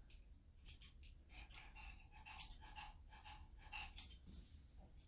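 Several short, sharp snips at irregular intervals from a hand-held dog-grooming cutting tool, with faint metallic ringing between them.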